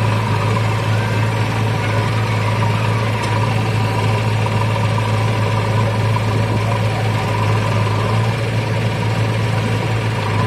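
Diesel engine running steadily at idle, an even low hum.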